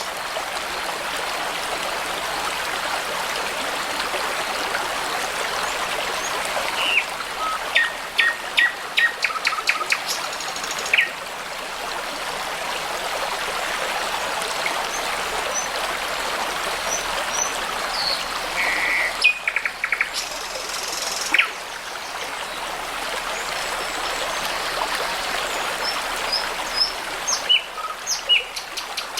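A babbling brook runs steadily while songbirds sing over it. The song comes in several short phrases of rapidly repeated notes and brief whistles, with quieter stretches of just water between them.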